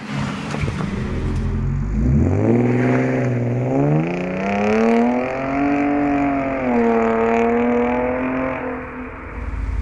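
Car engine and exhaust revving: the engine climbs steeply from low revs about two seconds in, is held at high revs with small rises and dips, and drops back near the end.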